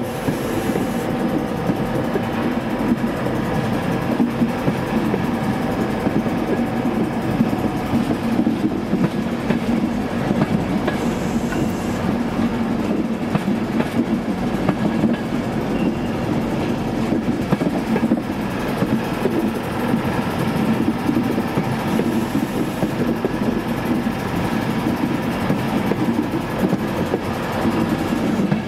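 LNER intercity passenger train moving along a station platform: a steady rumble of the train, with a few faint steady tones in it.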